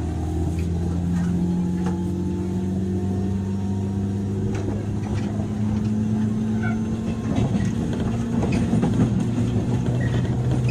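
Interior running sound of a JR 103-series electric train's motor car under way: a steady hum from the traction motors and gearing over wheel and rail noise, with a few faint clicks.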